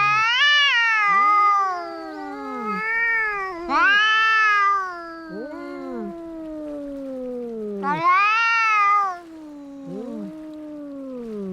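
Cats fighting: long, wavering yowls that rise and fall in pitch, with a louder outburst about every four seconds and lower drawn-out wails overlapping them.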